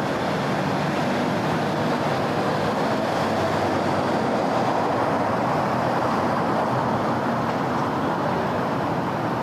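Steady wash of city road traffic, with vehicles rolling past together and no single one standing out, swelling a little around the middle.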